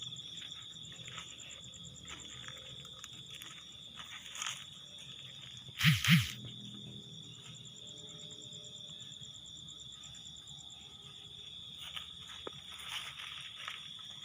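Steady high-pitched chirring of crickets or similar insects, with soft scattered rustling. About six seconds in come two loud thumps in quick succession.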